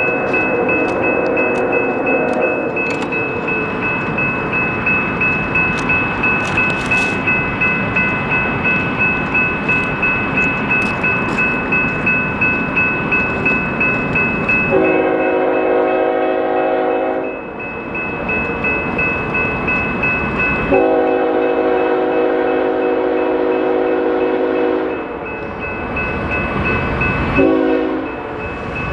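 BNSF freight train passing close by, its diesel locomotive horn sounding at a grade crossing: two long blasts, a short one, and a final long one beginning at the very end, the standard crossing signal. Between blasts the train runs steadily with a regular clack of wheels over the rails.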